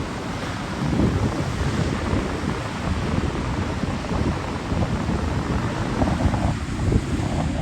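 Strong wind buffeting the microphone, a heavy, uneven low rumble.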